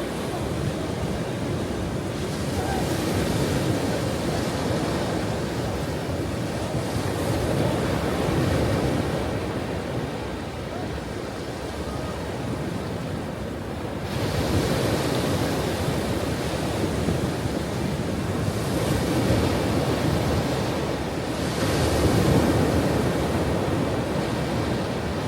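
Ocean waves breaking: a continuous rushing surf that swells and eases again as one wave after another comes in, about five times.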